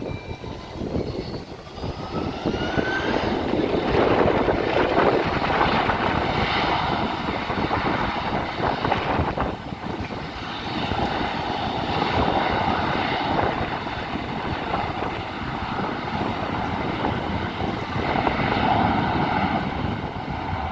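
Airliner engines at takeoff: a rising whine as the engines spool up in the first few seconds, then a loud, sustained roar of takeoff thrust that swells and eases as the aircraft rolls.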